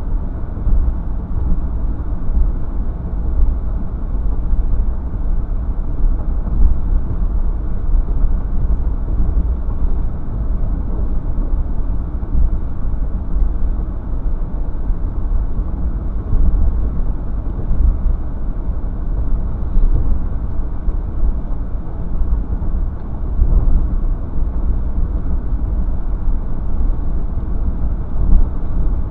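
Steady low rumble of a car being driven, with road and engine noise.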